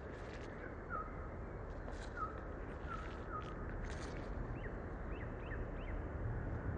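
Short bird chirps over a steady background noise: about four brief notes in the first half, then a few quick rising chirps. A low rumble grows near the end.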